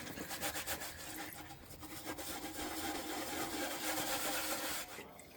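A full plastic oil drain pan scraping as it is slid across a concrete garage floor, a rough rubbing noise that stops suddenly about five seconds in.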